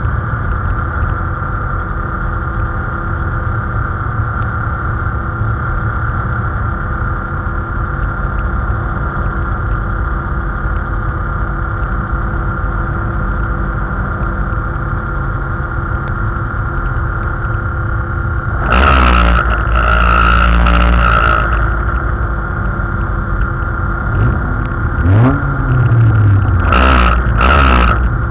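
Race car engine idling steadily, heard from inside the caged cabin. About two-thirds through there is a louder, harsher burst of engine noise lasting a couple of seconds, and near the end the engine is revved briefly, rising and falling, followed by short loud blips.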